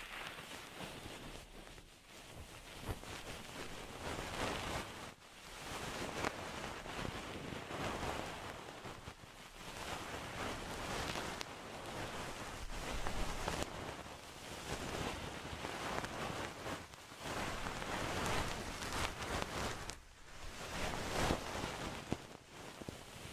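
Close-miked ASMR trigger sounds: a soft, toneless noise that swells and fades every second or two, with brief pauses between strokes.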